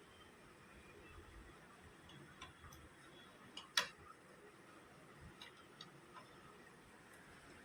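A few light, scattered clicks and taps from parts of a photocopier drum unit being handled during a cleaning-blade replacement, the sharpest click just under four seconds in, over faint hiss.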